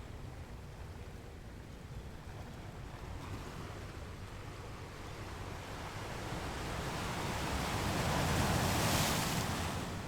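Ocean waves: a steady wash of surf with a low rumble, as one wave builds over several seconds, breaks loudest near the end and begins to fall away.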